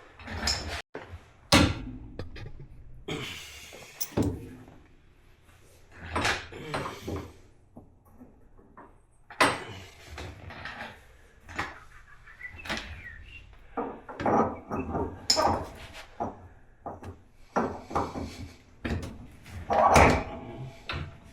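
Irregular knocks, clanks and clatter of parts and tools being handled during a UTV rear axle swap, with a few sharper knocks among them.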